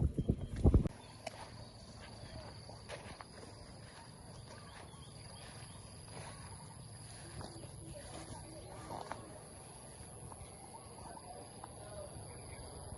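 A steady high-pitched insect drone, like crickets, over a quiet outdoor background. A few loud low thumps come in the first second, before the drone sets in.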